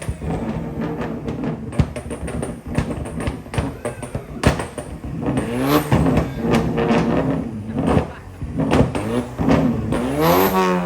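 Car engine and exhaust revving hard twice, the pitch sweeping up and back down, with many sharp pops and cracks from the exhaust.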